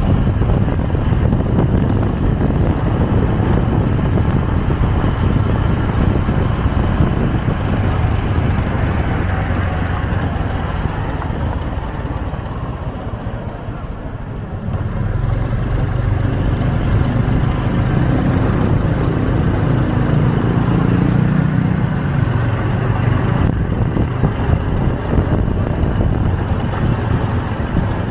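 Motorbike taxi on the move: its engine running with wind rushing over the microphone. It eases off about halfway through and picks up speed again.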